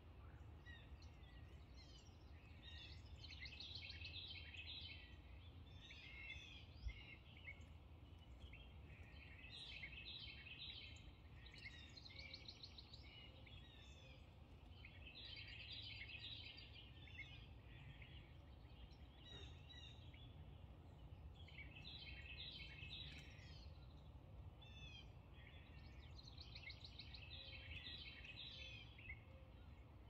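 Faint songbird song: bouts of quick, chirping phrases every few seconds over a low steady background rumble. A single sharp click about seven seconds in.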